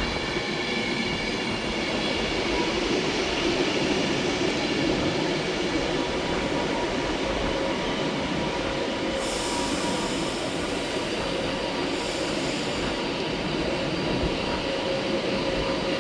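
Avanti West Coast Class 390 Pendolino electric train pulling into the platform, running with a steady rumble and several high, thin whining tones. Stretches of high hiss come in from about nine seconds in.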